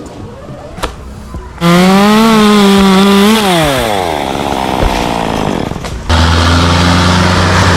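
Chainsaw revved to full throttle about a second and a half in, held for under two seconds, then let off so its pitch falls away. From about six seconds in it runs at full power again with a lower, rougher sound as the chain goes into the wood.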